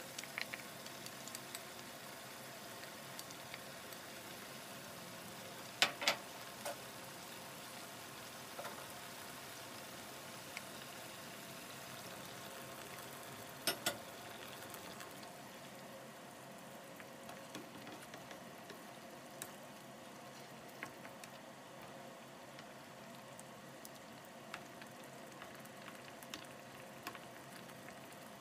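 Pork spare ribs sizzling and simmering in tomato sauce in a frying pan: a steady hiss with small scattered pops. Two sharp clicks stand out, about six and fourteen seconds in.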